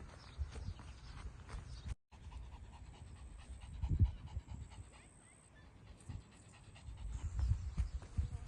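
A puppy panting, with scattered clicks and low thumps, loudest about four seconds in and again near the end.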